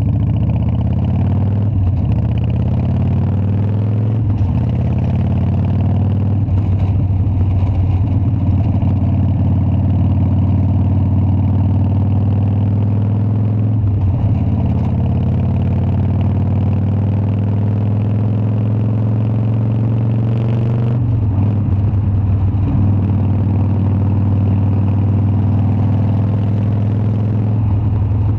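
Harley-Davidson Dyna V-twin engine running loud and steady. Its pitch climbs slowly and drops back sharply several times, the longest climb lasting about seven seconds.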